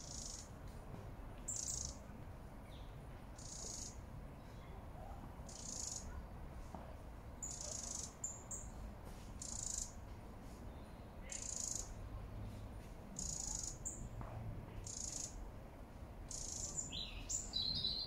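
Small bird giving a short, high chirp over and over, about every two seconds, with a couple of quicker sliding notes near the end.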